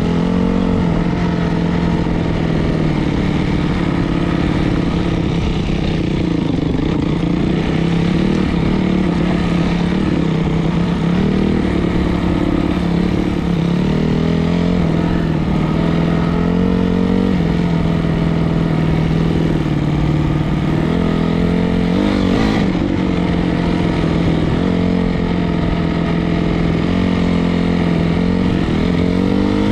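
Single-cylinder four-stroke dirt bike engine running steadily, its pitch rising and falling again and again as the throttle is opened and closed. There is a brief sharp knock about two-thirds of the way through.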